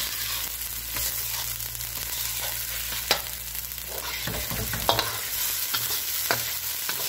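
Onion, garlic and dried-chilli spice paste sizzling in oil in a wok, stirred and scraped with a metal wok spatula that knocks sharply against the pan about five times. The paste is almost done, its moisture fried off.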